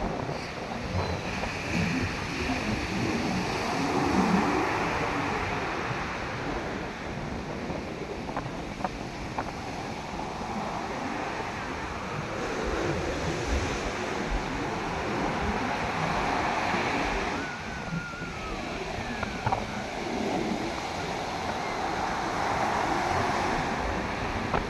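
Sea waves breaking and washing up a beach, the surf swelling and falling back every few seconds, with wind rumbling on the microphone.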